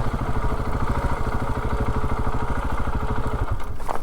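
KTM 690's single-cylinder engine running at low, steady revs with its firing pulses clearly heard, the note dropping away near the end.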